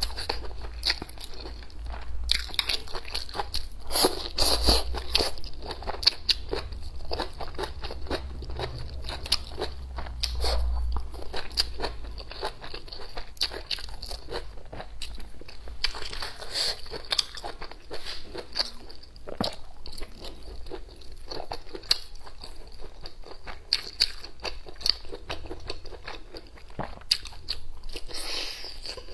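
Close-miked eating: crunchy bites and steady chewing, with dense, irregular crackles and clicks throughout.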